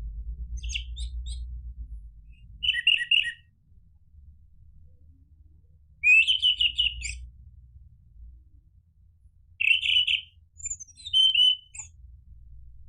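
Orange-headed thrush singing in five short bursts of quick, high chirps, spaced a second or more apart, the loudest about six seconds in. A low rumble runs underneath in the first couple of seconds.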